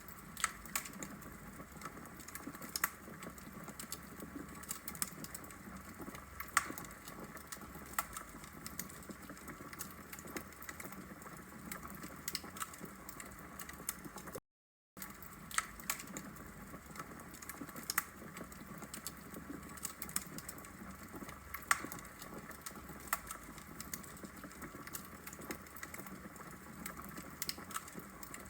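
Wood fire crackling in a fireplace: a steady low hiss with irregular sharp pops and snaps from the burning logs. The sound cuts out briefly to silence about halfway through.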